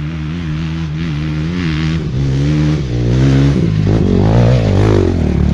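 Off-road motorcycle engines running and revving, with the pitch wavering up and down; the engine noise gets louder and busier from about three seconds in.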